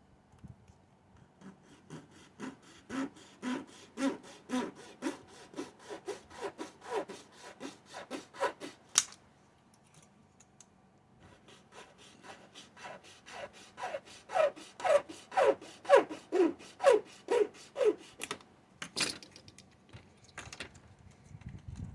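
A small hand saw cutting a model part with quick back-and-forth strokes, about three a second. The strokes come in two runs of several seconds with a short pause between, and each run ends with a sharp click.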